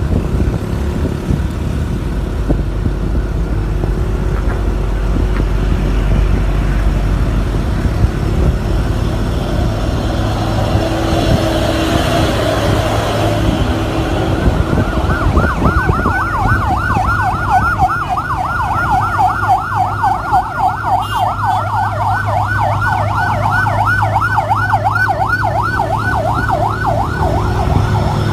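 Vehicle engine and road noise, then about halfway through an emergency vehicle's siren starts a fast yelp, rising and falling about three times a second, and keeps going over the engine hum.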